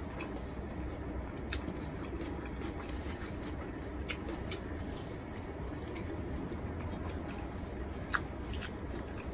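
A person eating rice and curry by hand: soft chewing and mouth sounds with a few sharp clicks, over a steady low hum.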